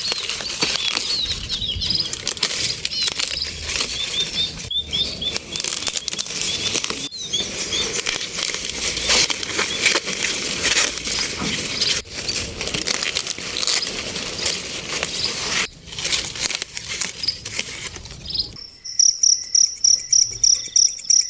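Dry corn leaves and husks rustling and crackling as young ears of corn are picked by hand. Near the end the rustling stops and an insect, likely a cricket, chirps in a steady pulse of a few chirps a second.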